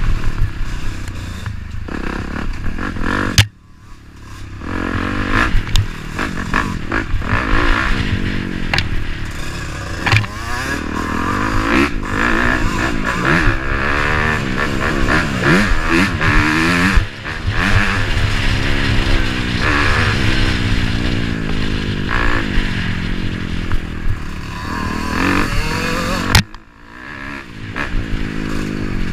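Dirt bike engines revving up and down as they ride, more than one engine at a time, the pitch rising and falling with the throttle. The sound drops away suddenly twice and builds back up.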